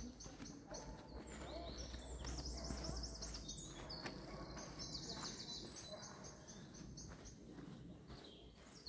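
Songbirds singing: repeated high chirping phrases and quick trills, one after another.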